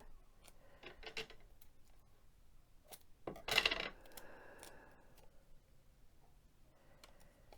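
Small clicks and handling noises with one louder brief rasp about three and a half seconds in: tape being pulled, cut and pressed around a ceramic mug to seal a sublimation transfer.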